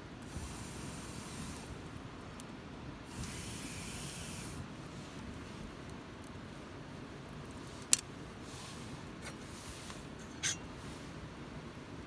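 Wood campfire burning with a soft hiss that swells twice in the first few seconds, then two sharp pops from the burning wood, the first the louder.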